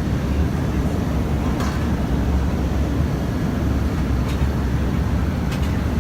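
Steady airliner cabin noise in flight: the low rumble of the engines and rushing air, with a few faint clicks.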